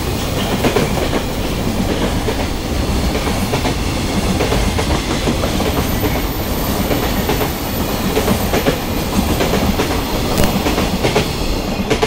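Container flat wagons of a freight train rolling past close by, with a steady rumble and the clickety-clack of wheels over the rail joints.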